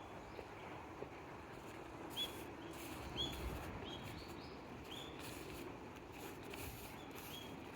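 Small birds calling with short, repeated chirps, about one a second, over the walker's own footsteps on the park path.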